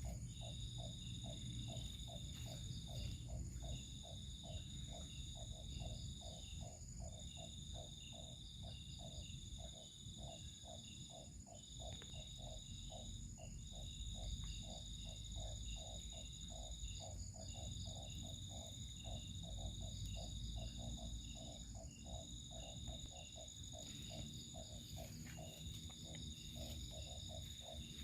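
Outdoor insect and frog chorus: a high, steady cricket-like trill in long stretches broken every few seconds, over a lower call repeated about two to three times a second.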